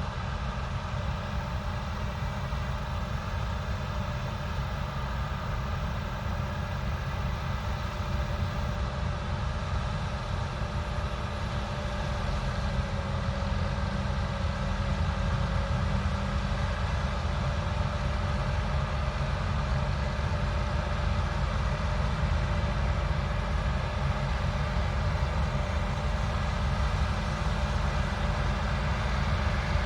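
Heavy diesel harvest machinery running steadily, a continuous engine drone that grows slightly louder about twelve seconds in.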